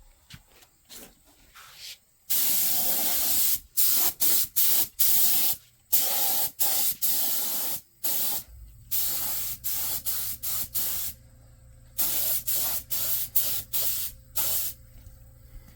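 Aerosol spray paint can sprayed in a run of bursts: a longer hiss about two seconds in, then a dozen or so short hisses with brief pauses between, ending near the end. It is paint going onto a rusty truck frame.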